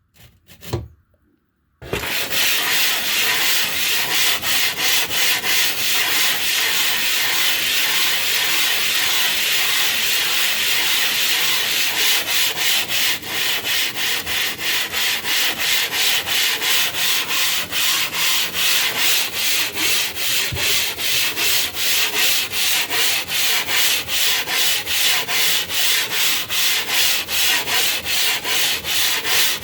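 A piece of limestone being rubbed back and forth against an abrasive surface to flatten it: a loud, gritty scraping in quick, even strokes, starting about two seconds in after a brief pause.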